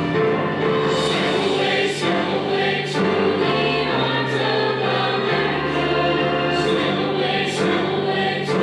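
A choir singing a song with instrumental accompaniment, voices holding sustained notes over a steady bass line.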